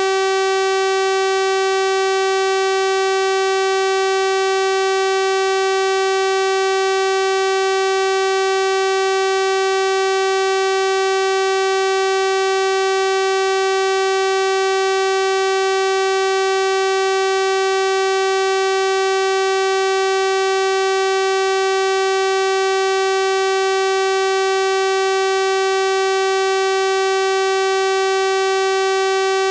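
Synthesized 384 Hz sawtooth-wave tone, a single steady pitch with a bright, buzzy stack of harmonics and no change in level.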